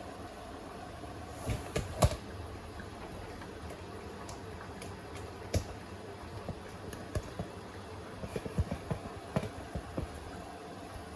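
Beko WTK104121A washing machine running early in a wash cycle: a steady hum with irregular clicks and knocks, the loudest about two seconds in and a cluster of lighter ones near the end.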